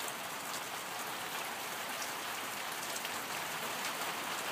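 Steady rain falling outdoors: an even hiss with scattered tiny drop ticks.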